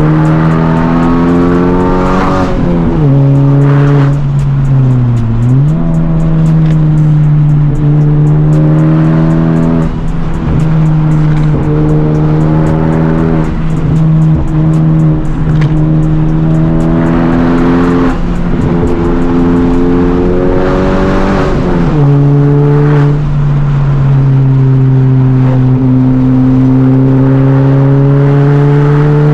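Honda Civic Type R (FL5) turbocharged four-cylinder with a catless downpipe and resonator delete, pulling hard on a drive: the revs climb steadily, then drop sharply and recover at gear changes, about three seconds in and again near twenty-two seconds.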